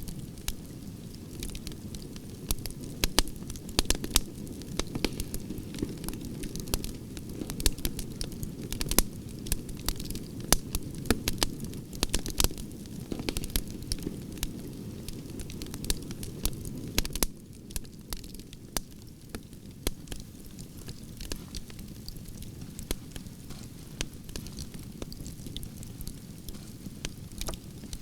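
Campfire of burning branches crackling: frequent sharp pops and snaps over a steady low rush of flames, the rush easing slightly about two-thirds of the way through.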